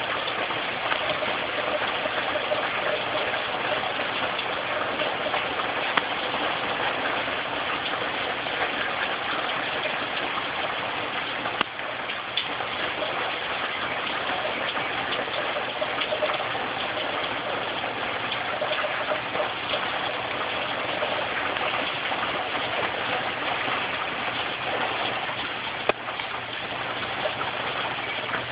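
Tropical storm rain falling steadily on a roof and porch, with occasional sharp drips.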